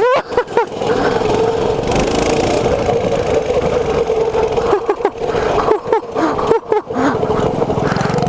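Mini bike engine running steadily at high revs while being ridden over rough ground, with brief throttle dips about five and six and a half seconds in.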